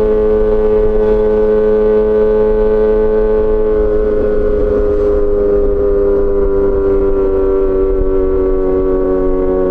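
Yamaha XJ6 S's inline-four engine through an SC-Project aftermarket exhaust, running at steady revs while riding. From about halfway through, the revs ease slowly downward.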